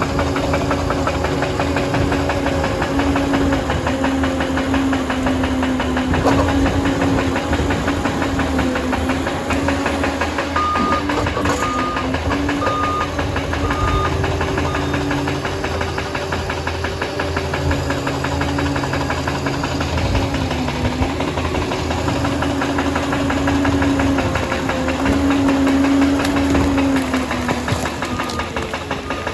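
Liebherr PR 746 crawler dozer's diesel engine running steadily while working, its note rising and falling with the load, over a dense clatter. A few short, high beeps sound about ten seconds in.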